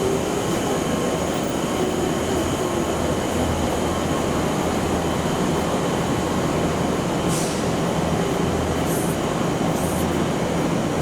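Passenger train running at a station platform: a steady rumble and hiss, with a few short high hisses about seven, nine and ten seconds in.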